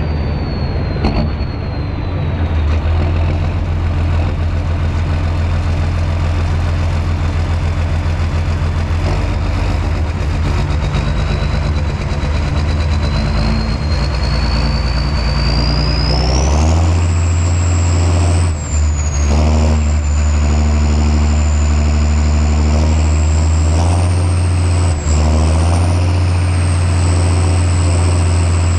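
John Deere 6630 Premium tractor's six-cylinder diesel running steadily while plowing, with a high thin whistle over the engine note. About sixteen seconds in, the whistle rises sharply in pitch and the engine's low hum grows stronger.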